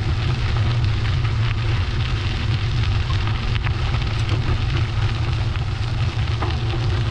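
Wind buffeting the microphone of a camera carried on a moving bicycle: a steady low rumble with an even hiss of road noise above it, and a few faint clicks midway.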